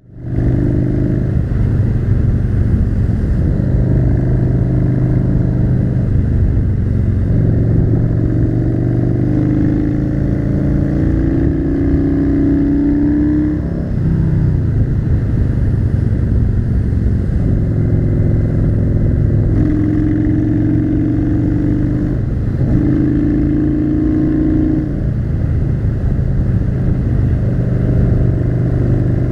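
Yamaha V-twin cruiser motorcycle engine running under way, its note rising and falling with the throttle. It dips briefly about halfway through and again about three quarters through.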